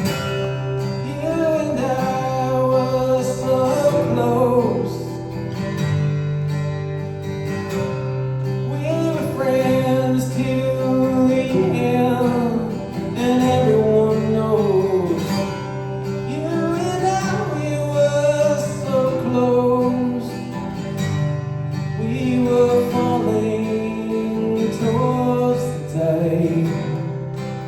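Live song performance: guitar with a man singing.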